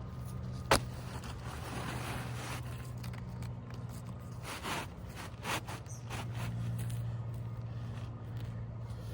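One sharp knock, then a few short scrapes and rustles from handling asphalt roof shingles, over a steady low hum.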